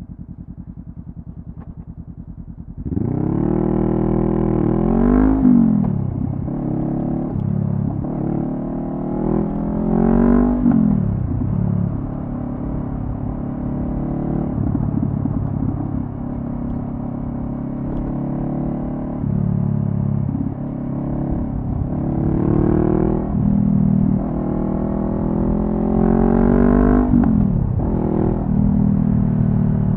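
2014 Honda CB500F's parallel-twin engine through a Delkevic carbon-fibre slip-on exhaust, idling for about three seconds and then pulling away: the revs climb and drop several times with gear changes, with steadier running in between.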